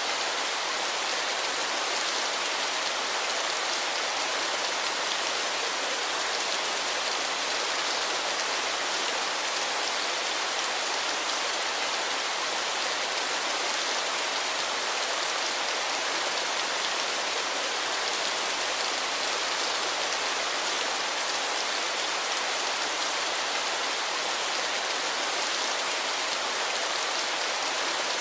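Waterfall: falling water making a steady, unbroken hiss, mostly high with little low rumble.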